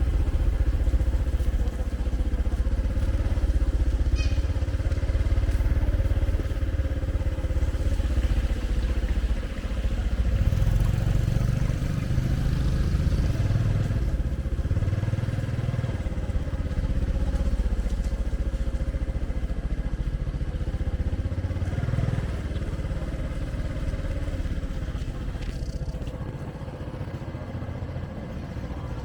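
A small motor vehicle running steadily, with a constant low rumble and a steady hum.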